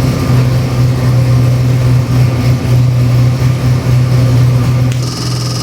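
Freshly built Ford 347 stroker small-block V8 running at a steady idle just after start-up. About five seconds in, a higher hiss joins the engine sound.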